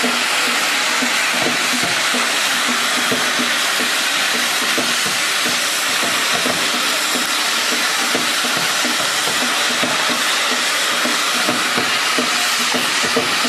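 Hand-held bamboo tube firework (tezutsu hanabi) spraying its fountain of sparks: a loud, steady rushing hiss with many small crackles through it.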